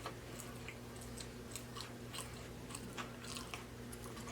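Close-miked chewing of a stacked burger-and-fried-sandwich mouthful: soft wet smacks and small crunches, several a second, over a low steady hum.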